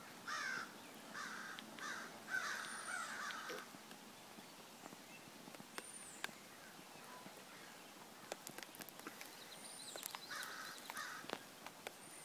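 A bird outdoors calling in short harsh notes, a run of them in the first few seconds and two more near the end, with a faint high chirp now and then.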